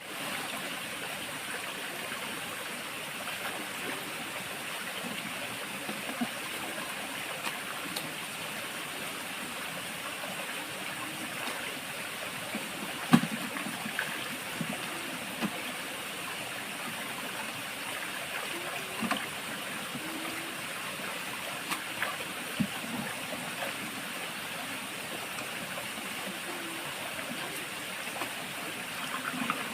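Steady rush of flowing stream water, with scattered small clicks and knocks and one sharper knock about thirteen seconds in.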